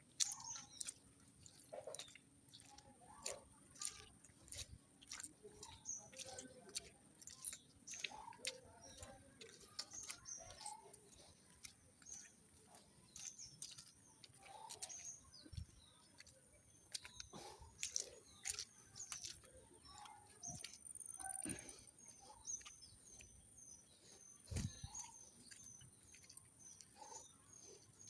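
Small birds chirping, with a quick run of repeated short chirps near the end. Scattered clicks and knocks and a faint steady high tone are also heard.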